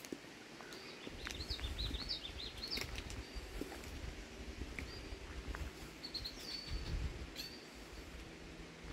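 A small songbird singing: a quick run of high chirping notes starting about a second in, then a few short, separate high notes. A low rumble runs underneath.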